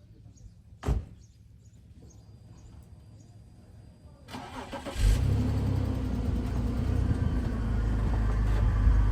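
A single thump about a second in. Then, about four seconds in, a car engine cranks and catches, and it settles into a loud, steady idle.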